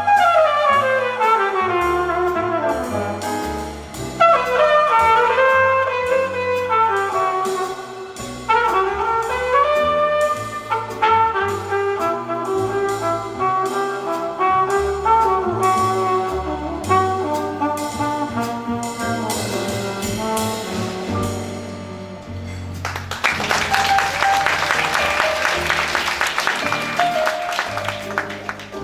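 Flugelhorn playing a jazz ballad solo, with long descending runs, over double bass, drums and comping. About 23 seconds in, the solo ends and the audience applauds while the band plays on.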